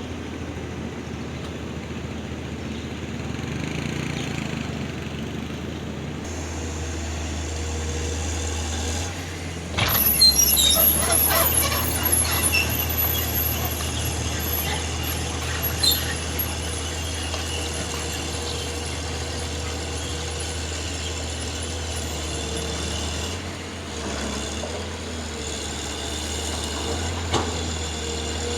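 Heavy diesel truck's engine running steadily, with a sudden loud hiss of air about ten seconds in, typical of air brakes, along with a few metallic clanks.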